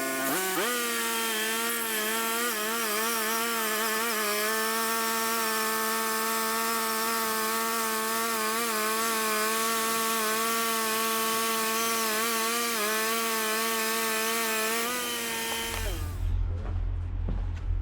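Portable bandsaw sawmill cutting through a black walnut log on an old blade that is not cutting well, running steadily with a slightly wavering pitch. Near the end the pitch drops and the cutting sound stops, leaving a lower hum.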